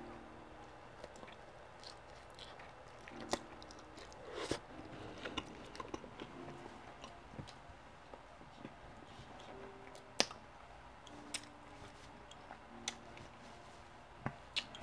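Close-miked chewing of a mouthful of stuffed-crust pepperoni pizza, with scattered short sharp mouth clicks.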